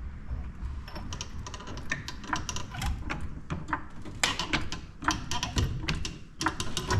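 A jack being worked to lift a truck cab off its rusted mounts, giving a run of irregular clicks and ticks over a low rumble.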